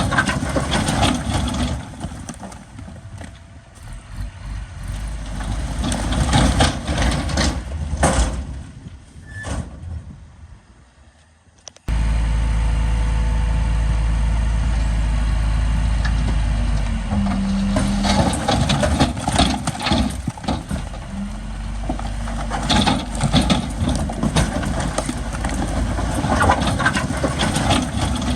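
Heavy diesel earthmoving machinery running under work, with repeated clanks and knocks. Partway through the sound fades, then cuts back in abruptly as a steady, strong low rumble.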